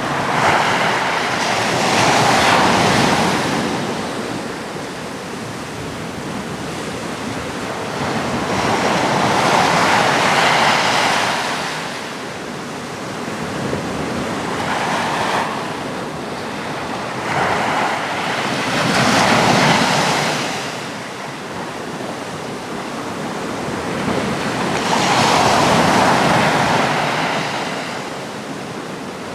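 Atlantic surf breaking on a rocky shore, each wave swelling into a loud wash and falling back to a lower rumble, about one surge every five to eight seconds, with some wind on the microphone.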